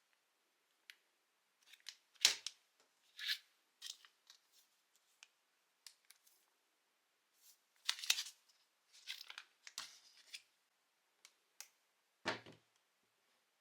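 Instant-food packaging being handled and opened: irregular short plastic crinkles, rustles and clicks with pauses between them, and a dull knock near the end.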